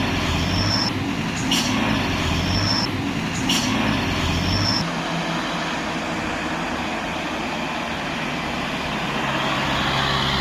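Hino fuel-tanker truck's diesel engine roaring, with a sharp click and a short high whistle repeating about every two seconds. About halfway through the low engine note drops away, leaving a steady rushing noise.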